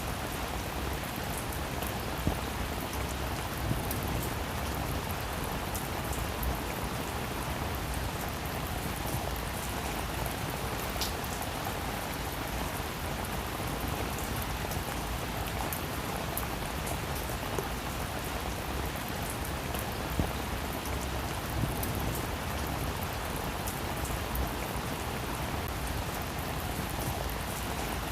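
Heavy rain falling steadily: a dense, even hiss with many sharp individual drop hits scattered through it.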